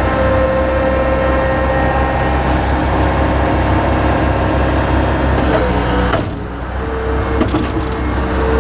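Bobcat 853H skid steer's engine running steadily, with a steady whine over the engine drone. It eases off briefly about six seconds in, then picks up again.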